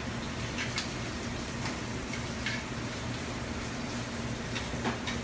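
Shrimp sizzling in hot clarified butter in a sauté pan, with metal tongs clicking against the pan several times as they are turned. A steady low hum runs underneath.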